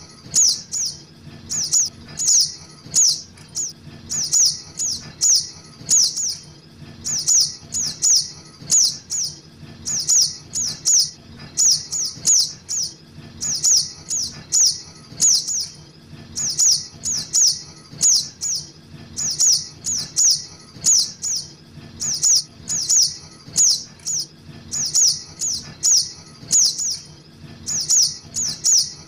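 Juvenile little spiderhunter (sogok ontong) calls used as a bird lure: short, high chirps that sweep downward, repeated steadily in quick pairs and triplets, about two to three a second.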